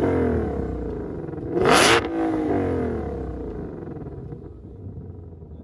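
2020 Shelby GT500's supercharged 5.2-litre V8 being revved in sharp blips: the revs fall away at the start, then a quick blip about a second and a half in whose pitch climbs and sinks back down over the next two seconds, settling to a low idle.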